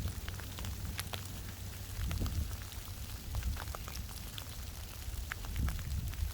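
Rain falling, with many separate drops ticking sharply against a surface over a low rumble.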